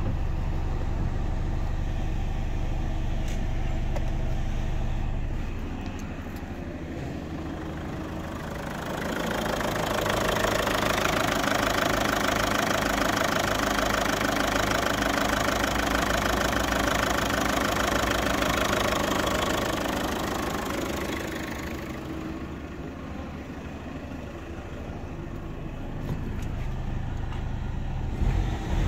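Mazda 5 2.0-litre RF7J four-cylinder turbodiesel engine running. About nine seconds in it grows louder and fuller for roughly ten seconds, then settles back to a quieter steady run.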